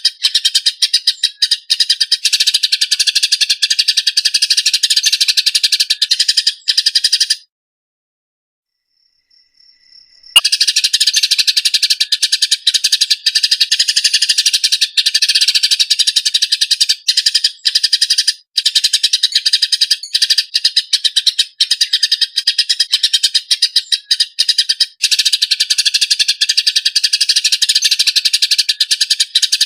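Eurasian tree sparrows chirping in a fast, harsh, tightly packed run of fighting calls. The calls break off for about three seconds a quarter of the way in, then start again.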